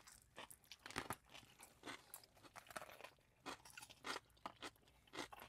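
Faint crunching and chewing of a bite of a large dill pickle used as sandwich bread, with many short, sharp crackles and one a little louder about a second in. The pickle is very firm and crunchy.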